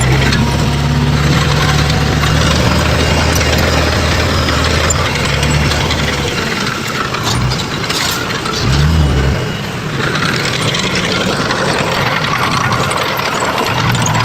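Heavy construction machinery working: a steady low engine hum with mechanical clatter, the engine tone dropping out after about six seconds and briefly dipping and rising in pitch a few seconds later.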